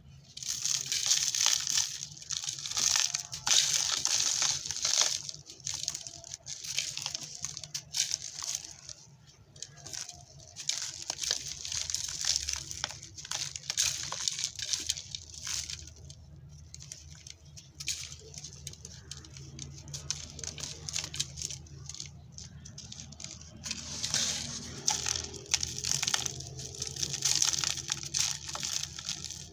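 Dry, dusty red dirt and sand-cement crumbling and crunching, a dense crackle of small breaking grains and chunks. It is loudest in the first few seconds and again near the end, softer in between.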